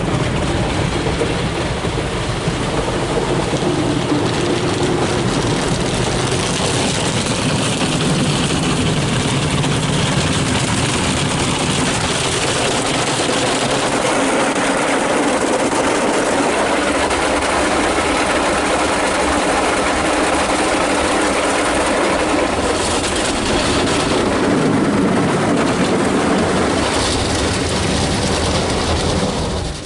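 Ryko SoftGloss MAXX automatic car wash running over a car: a loud, steady rush of machinery and spraying water that cuts off suddenly at the end.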